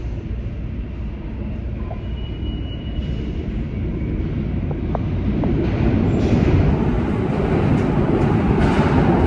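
New York City subway L train coming into the station, its rumble on the rails growing steadily louder through the second half, with a few short clicks about five seconds in.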